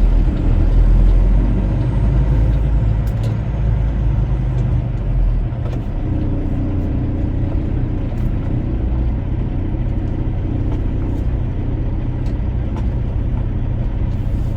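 Semi truck's diesel engine running with a steady low rumble, heavier for the first five seconds or so and then settling a little lower.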